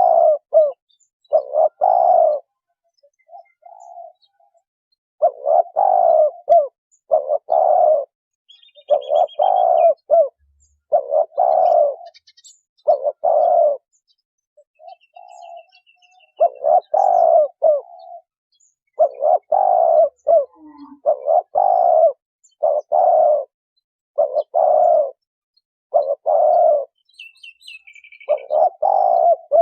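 Spotted dove cooing: repeated low, hollow coo notes given in phrases of several notes with short pauses between. A few faint high chirps of another small bird sound now and then.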